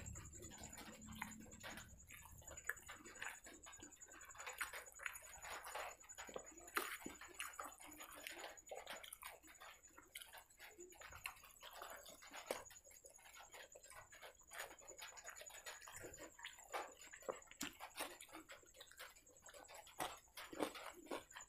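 Close-up eating sounds: a person chewing soft fried bread and curry, with irregular wet smacks and small clicks of the mouth and fingers. A faint steady high whine sits underneath.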